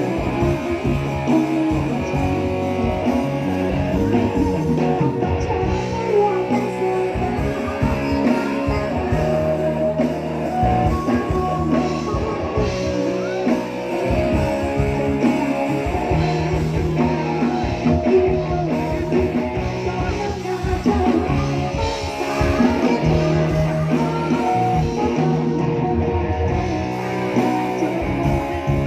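Live band music led by guitar, with bass and drums, played on stage.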